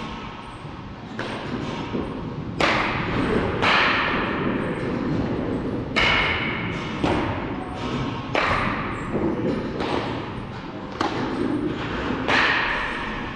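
Baseballs striking something during practice: a run of thuds at uneven gaps of about one to two seconds, each with a short echo.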